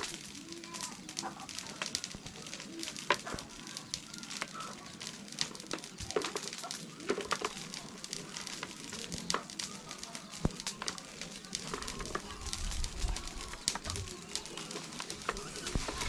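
Outdoor village background: scattered sharp clicks and knocks over a steady hiss, with occasional calls from birds and chickens. A low rumble comes in near the end.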